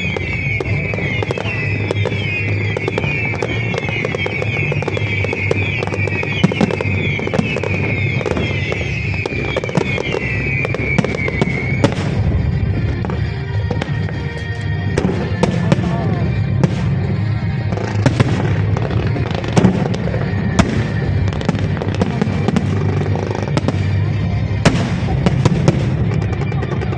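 Fireworks display: many overlapping whistling shells for about the first twelve seconds, then scattered sharp bangs and cracks from bursting shells, with music playing underneath.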